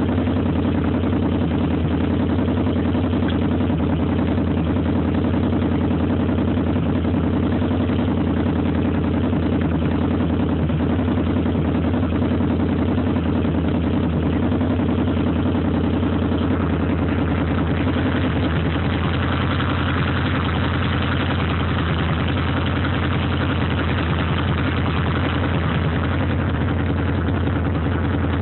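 Motorcycle engine idling steadily at an even, unchanging speed.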